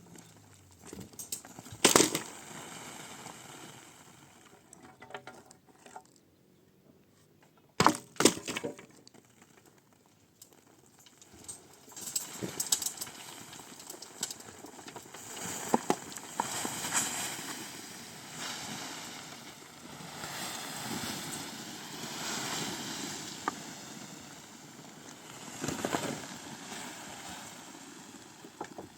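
Sharp knocks and clattering: one loud knock about two seconds in, a quick double knock about eight seconds in, then steady rustling and scraping with scattered clicks and another knock near the end.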